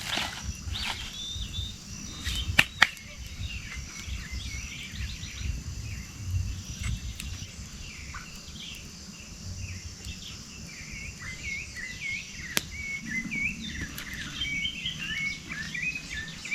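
Small birds chirping repeatedly in short high calls, with a few sharp cracks, the loudest pair about two and a half seconds in and another near twelve and a half seconds, over a low rumble.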